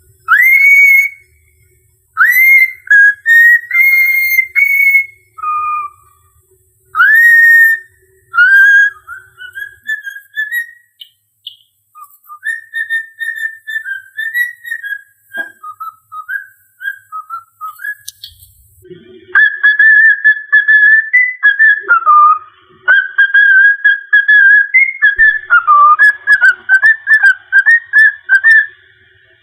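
Cockatiel whistling a mimicked tune: clear whistled notes that swoop up at their start and are held, then, about two-thirds of the way in, a long run of quick, warbling notes.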